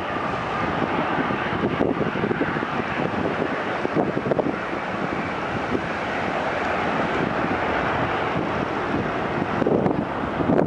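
Jet engine noise from a Boeing 747-8's four GEnx engines as the airliner lands, a steady rush that grows slightly louder toward the end, with wind buffeting the microphone.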